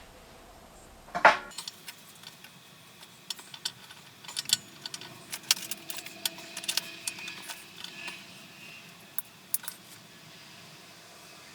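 A sharp knock about a second in, then scattered light clicks and clinks of small hard objects being handled.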